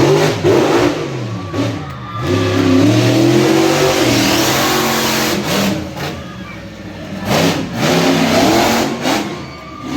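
Monster truck engine revving hard in three surges, its pitch climbing and falling with each blip of the throttle.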